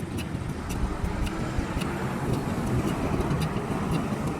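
A vehicle engine running steadily: a low rumble with faint, regular ticks about three times a second.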